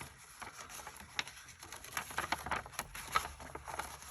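Cardstock being folded and handled by hand: a string of light, irregular taps and rustles.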